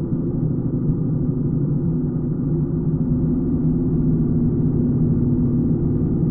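BMW R75 motorcycle's 750 cc flat-twin engine running steadily, a low, even drone with no change in pace.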